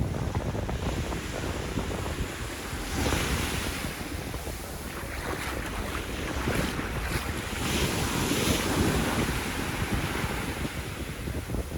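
Sea waves breaking and washing up a beach, with wind buffeting the microphone as a low rumble. The surf swells louder about three seconds in and again around eight seconds.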